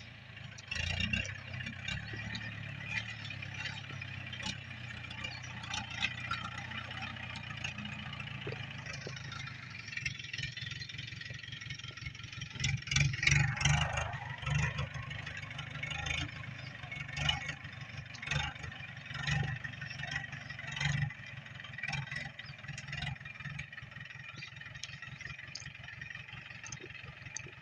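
Tractor engine running steadily while sowing wheat, with frequent clattering knocks from the machinery and a louder passage about halfway through.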